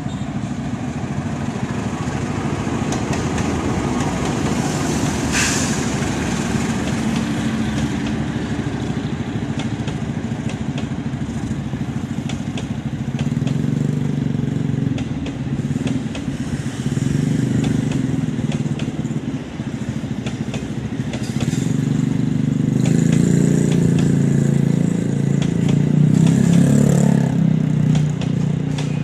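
CC 206 diesel-electric locomotive passing with its engine running, then its passenger coaches rolling by, the wheels clicking rhythmically over the rail joints. A short sharp hiss comes about five seconds in.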